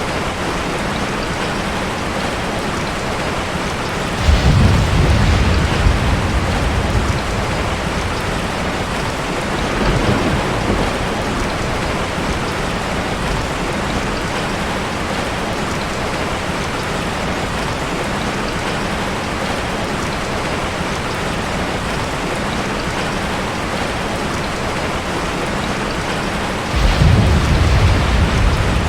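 Steady heavy rain falling, with low rolls of thunder: one about four seconds in lasting a few seconds, a fainter one around ten seconds, and another starting near the end.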